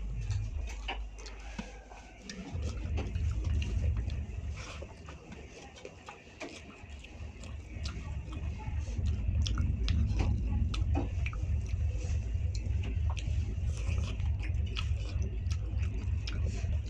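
A person chewing food close to the microphone, with many small wet mouth clicks and smacks and a low rumble underneath through much of it.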